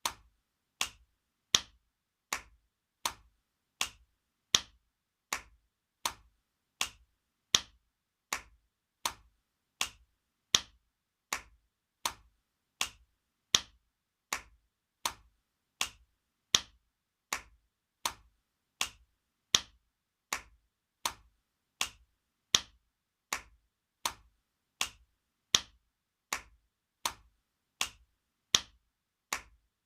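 Spanking sound effect: sharp slaps of a hand on skin, repeated evenly about four times every three seconds, with some strikes louder than others.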